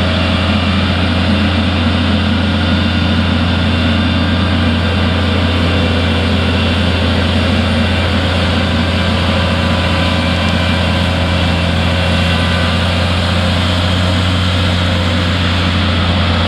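The 380-horsepower engine of a large triple-axle slurry tanker running steadily, a deep even engine hum that holds constant throughout.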